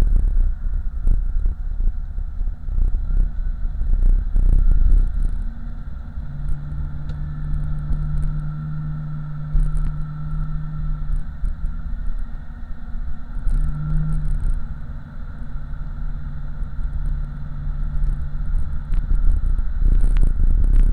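5.3-litre LS V8 swapped into a 1987 Oldsmobile Cutlass, running on the move and heard from inside the cabin as a low exhaust rumble. It settles into a steady drone for several seconds at a time in the middle and gets louder again near the end.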